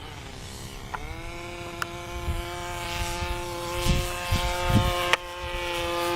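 O.S. Wankel rotary engine of a radio-controlled model Tiger Moth biplane running at a high, steady whine as the plane flies past. The note drops in the first second, then holds steady and grows gradually louder.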